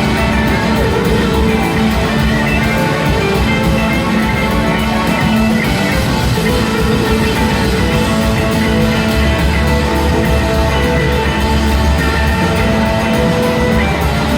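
Live rock band playing an instrumental passage, electric guitars holding sustained notes over a steady bass and drums.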